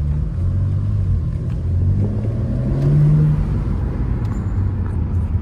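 Car engine running while the car is driven, with its note briefly rising under acceleration about two and a half to three seconds in.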